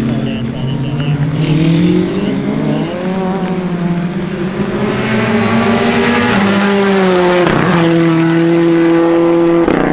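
Rally car engine working hard on a stage, its pitch climbing and then dropping sharply twice at gear changes before holding steady near the end.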